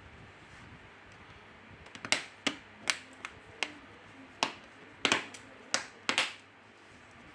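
A series of about ten sharp clicks and snaps, irregularly spaced over some four seconds, from a Nokia 3.1 smartphone's parts being handled and pressed together during reassembly.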